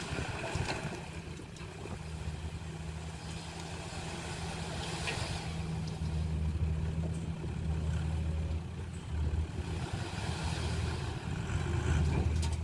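Heavy construction machinery's diesel engine running steadily, a deep throb that gets louder partway through as the machine works or comes closer.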